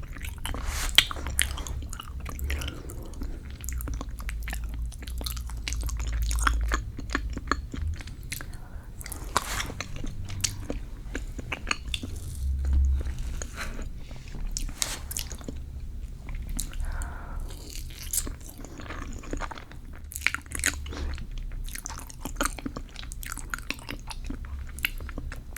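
Close-miked chewing of dense, thick cheesecake: wet, sticky mouth clicks and smacks in quick, irregular succession.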